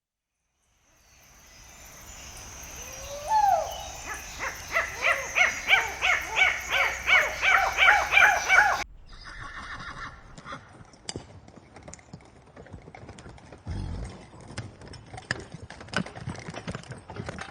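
An animal calling in a long run of repeated pitched calls, about two a second, growing louder and then cut off abruptly. Scattered clicks and knocks and a few low thumps follow.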